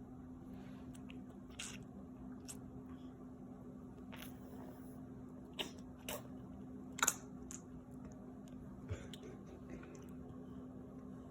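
Faint mouth sounds of cheese being bitten and chewed: soft squishy smacks and a handful of sharp clicks, the loudest about two thirds of the way through, over a steady low hum.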